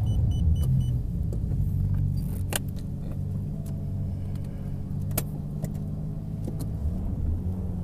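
Car engine idling steadily just after being started. Four short high beeps sound in the first second, and there are a few sharp clicks.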